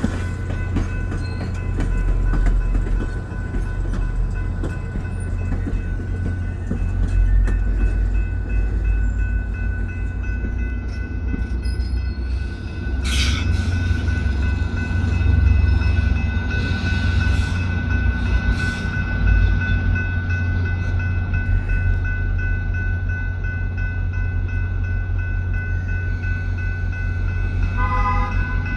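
VIA Rail passenger train's diesel locomotive running with a steady, heavy low rumble and a faint constant whine. A sharp burst of noise comes about halfway through, and a short pitched tone sounds near the end.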